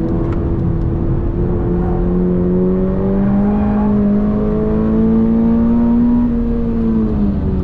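2022 Toyota GR86's 2.4-litre flat-four engine heard from inside the cabin, pulling hard under full throttle with its pitch rising steadily for about six seconds. Near the end the revs drop as the throttle comes off for braking.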